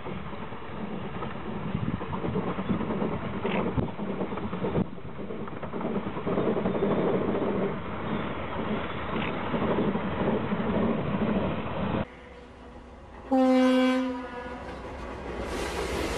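Railway rotary snowplow cutting through deep snow, a steady noisy rumble. About twelve seconds in the sound changes to another scene: a locomotive horn gives one short blast, then the rising rumble of locomotives pushing through snow.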